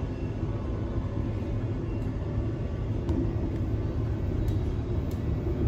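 Steady low rumble of an electric commuter train running along the line, heard from inside the carriage, with a few faint clicks.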